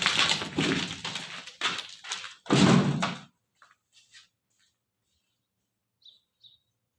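Loud clattering and knocking for about three seconds, then quiet with two faint bird chirps near the end.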